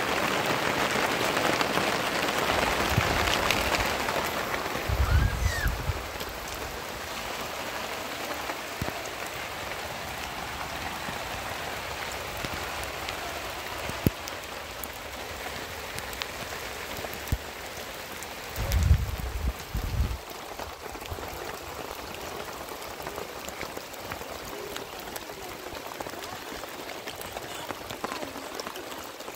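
Heavy rain falling on a canvas tent and the wet ground around it, a dense, even patter, louder in the first few seconds and then steadier and softer. A few low thumps stand out, one about five seconds in and a pair near nineteen seconds.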